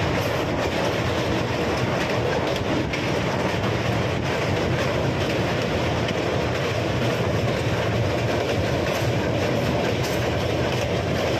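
Indian Railways express train running at speed over a steel truss bridge, heard through an open coach window: a steady rumble with the clatter of wheels on the rails.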